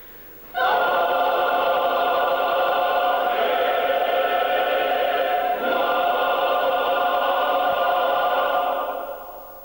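Choir singing a loud held chord that comes in suddenly about half a second in, changes twice, and fades away near the end.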